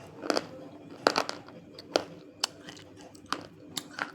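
Chunks of dry multani mitti (Fuller's earth clay) being bitten and chewed close to the mic: a run of about eight sharp, separate crunches. The clay is hard and dry.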